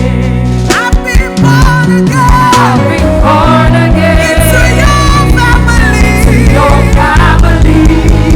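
Live gospel worship music: band with drums and bass, and singers holding wavering lines.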